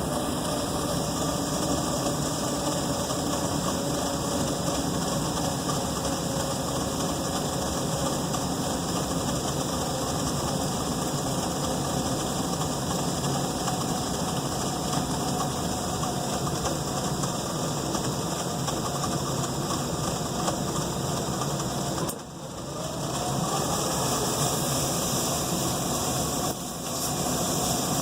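Furnace running with a steady mechanical drone. About 22 seconds in the sound briefly drops away, then a rising tone comes back up, like the blower spinning up again, with a second short dip a few seconds later.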